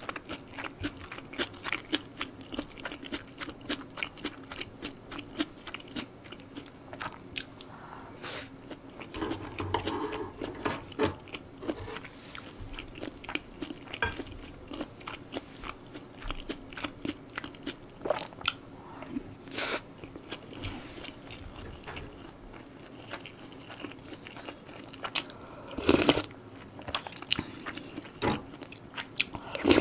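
Close-miked eating: steady chewing and crunching of mouthfuls of stir-fried spicy pork and rice, in quick wet clicks, with two louder knocks near the end.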